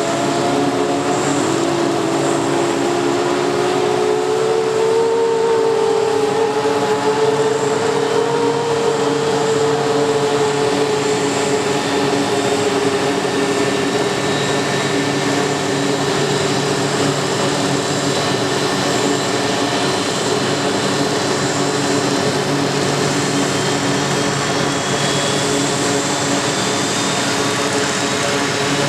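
F-15J fighter jet's engines starting up: a loud steady jet whine and rush with held tones, one tone rising in pitch in the first few seconds and thin high whines climbing slowly near the end as the engine spools up.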